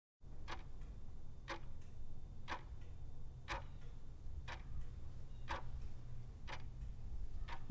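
Clock ticking once a second, eight even ticks over a low steady hum, starting and stopping abruptly like a countdown-timer sound effect.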